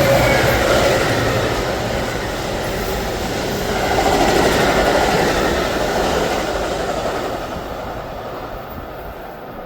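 Passenger train running through the station at speed without stopping, its wheels clattering over the rail joints. The rush is loudest about four to five seconds in, then fades as the train moves away.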